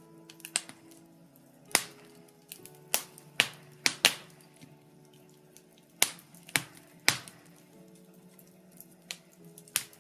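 Birch logs crackling in a fireplace: irregular sharp pops and snaps, the loudest clustered a couple of seconds in and again about six to seven seconds in, over soft sustained background music.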